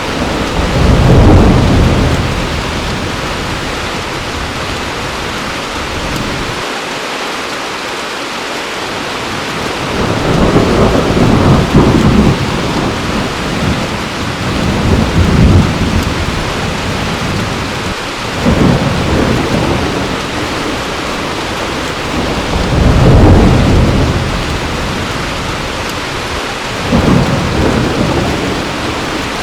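Heavy rain falling steadily, with rolls of thunder rumbling up and fading away every few seconds, about five times.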